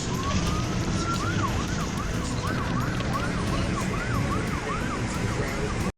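Emergency siren rising in pitch over the first second, then switching to quick up-and-down sweeps about three times a second, over a heavy, steady low rumble. Everything cuts off abruptly at the end.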